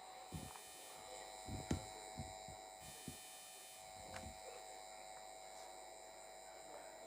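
Faint, steady electrical buzz from a faulty camera microphone, with a few brief soft low knocks.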